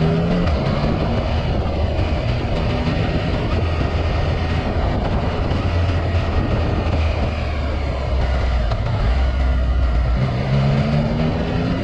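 2018 Yamaha XSR900's inline three-cylinder engine through an Akrapovic carbon full exhaust while riding, with wind noise throughout. The engine note holds steady through the middle and rises in pitch near the end as the bike accelerates.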